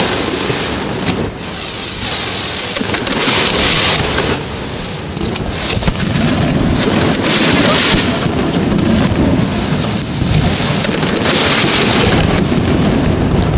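Fireworks display going off without pause: dense crackling with booms underneath, swelling in loud waves every few seconds.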